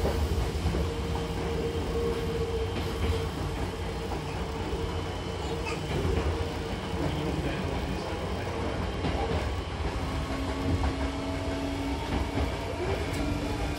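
Cabin noise of a Hankyu 6000-series electric train running: a steady low rumble from the wheels and running gear, with a steady hum over it and a lower hum near the end.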